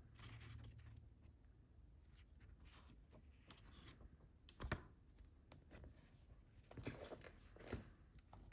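Paperback manga volumes being handled, with soft paper rustles and light taps and one sharper tap about halfway through.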